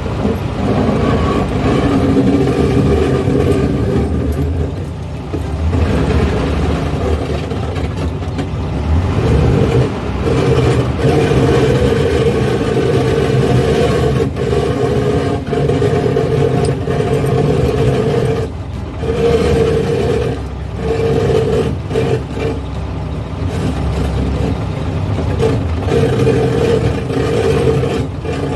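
A 1970s Volkswagen being driven: its engine runs continuously under road noise, the engine note swelling and easing, with a few short knocks along the way.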